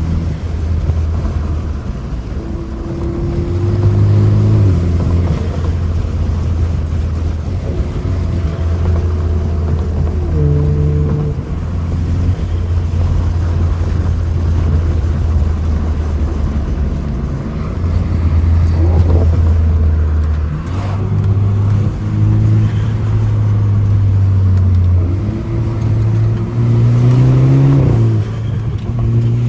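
BMW F30 328i's turbocharged four-cylinder engine under hard driving, revving up and dropping in pitch several times as it pulls through the gears and shifts.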